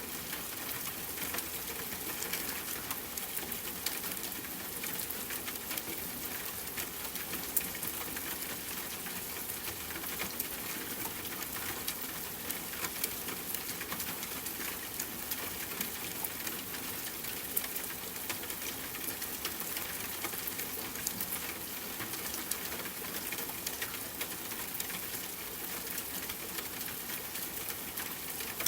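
Steady rain falling on a tent, mixed with campfire crackling, with many small sharp ticks scattered through an even hiss.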